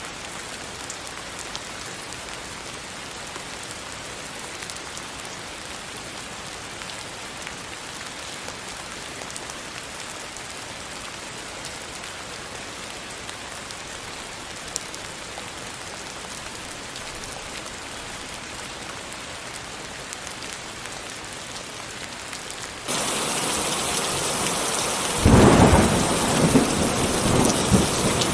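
Steady rain falling. About three-quarters of the way through it switches abruptly to heavier, louder rain, and thunder rumbles in several swells near the end.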